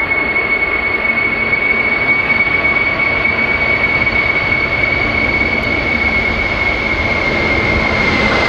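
Jet airliner engines running at power: a broad, steady rush with a strong high-pitched whine that dips slightly in pitch near the end.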